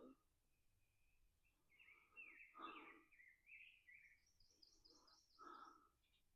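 Faint songbird singing: a run of quick chirping notes, then a higher, faster series about halfway through. Two heavy, congested breaths from a man with a chest and sinus infection come in between.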